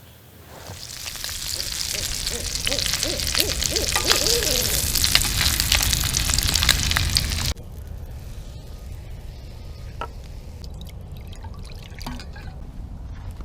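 Campfire crackling and hissing, growing louder over the first couple of seconds, with a few wavering tones in the middle. About seven and a half seconds in it cuts off abruptly to a quieter, steady low background with occasional faint clicks.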